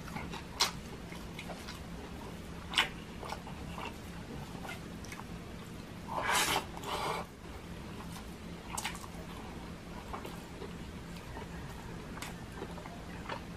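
Close-up mouth sounds of a man eating garlic fried rice and fish with his hands: chewing, lip smacks and scattered wet clicks. About six seconds in there is a louder, longer stretch as a handful of rice goes into his mouth.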